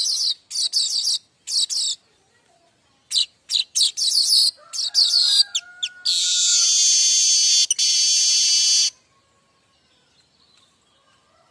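Manyar kembang weaver singing: quick runs of short high chirps, then one long buzzing note of about three seconds, the 'mbeset' sound typical of this bird.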